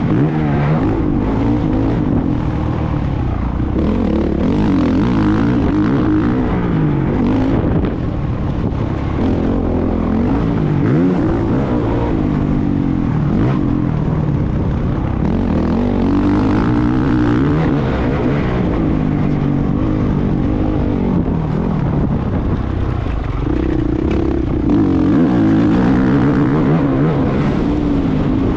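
Motocross motorcycle engine being ridden hard, its pitch repeatedly rising and falling as the throttle is opened and closed through the corners and gears.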